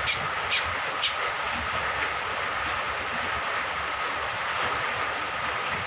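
Steady rain with a cucak kombok (kecial kombok) honeyeater giving three short, high calls in the first second or so.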